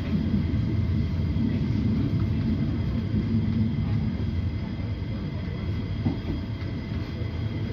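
Train running: a steady low rumble with faint steady high-pitched tones above it, and a small knock about six seconds in.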